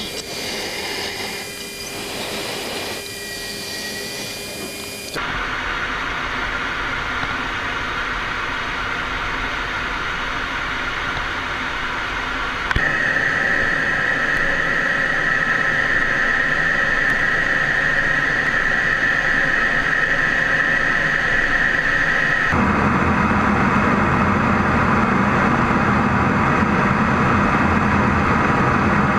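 F-16D Fighting Falcon in-cockpit jet noise: a steady rush of engine and airflow with a few steady whining tones. It changes abruptly about five seconds in, again about thirteen seconds in when a strong high whine appears, and about twenty-two seconds in when a deeper rumble takes over.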